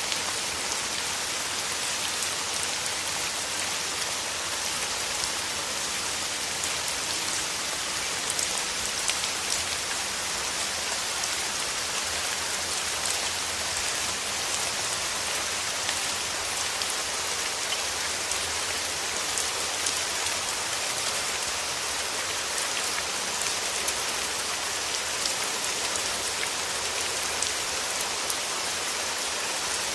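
Steady rain falling on rose petals, an even hiss with sharp ticks of single drops landing close by now and then.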